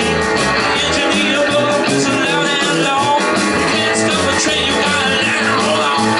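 Live rock and roll band playing with a steady beat: electric guitar leading over bass and drums.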